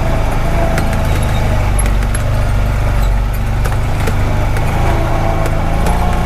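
Honda Pioneer 520 side-by-side engine running steadily while driving slowly over a rough dirt track, with a few scattered knocks and rattles from the machine.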